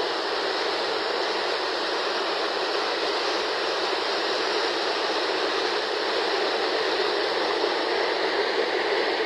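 Flash-flood water rushing steadily, a continuous even roar of a torrent.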